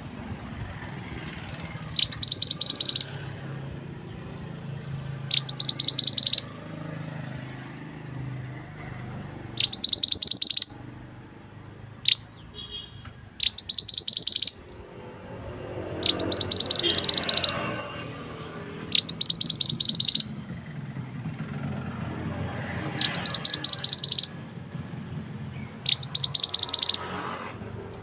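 A small songbird known in Indonesia as the mantenan singing a high, very rapid rolling trill, about a second per phrase, repeated roughly every three seconds, with one brief extra chirp in between.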